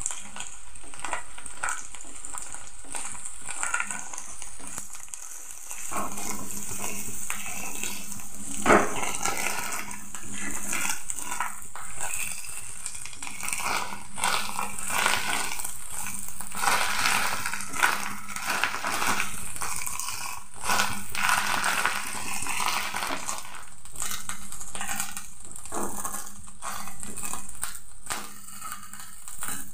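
Fish roe sizzling as it fries in oil in a metal wok, with a spatula repeatedly scraping and knocking against the pan as it is stirred and broken up.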